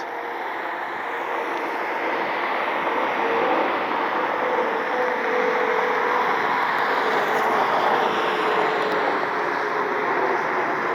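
Jet airliner engines running at an airport: a steady rushing noise that swells slightly, with a faint steady hum beneath it.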